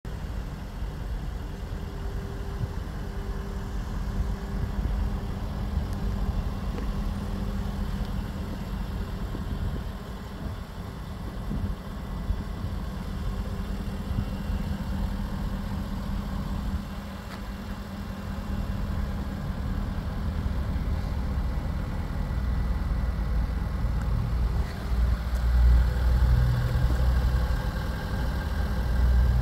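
2014 Jaguar XK's 5.0-litre V8 idling steadily, a low rumble that grows louder in the last few seconds.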